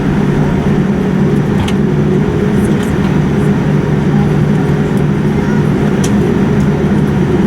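Steady low rumble and hum of a moving vehicle, with a few faint clicks.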